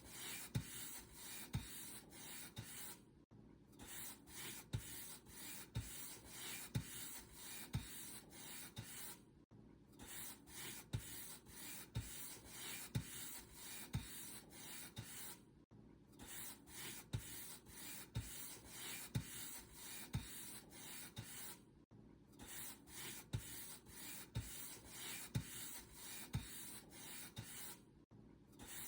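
Paint brush bristles stroking back and forth over a surface, a soft, even scratchy rub at about two strokes a second. A short pause breaks the rhythm about every six seconds.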